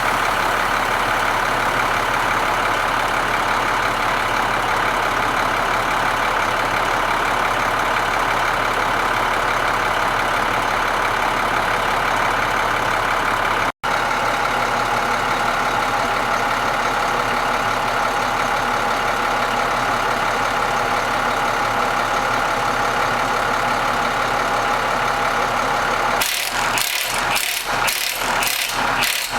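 An engine running steadily, breaking off for an instant about fourteen seconds in. Near the end a rhythmic mechanical clatter of about two strokes a second starts over it.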